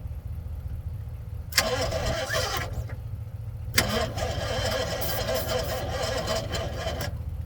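1984 tow truck's engine cranking on the starter in two tries, a short one and then a longer one of about three seconds, each opening with a sharp click, without catching. The owner suspects the carburetor's float bowl is empty of fuel, and the battery is being jumped. A steady low rumble runs underneath.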